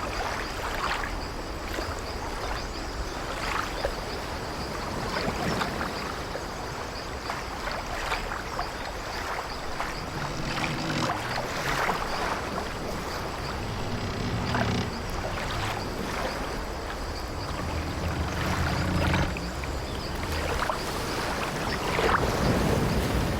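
Sea waves washing against an old wooden sailing ship, with the ship's timbers creaking; low creaks come and go from about halfway through.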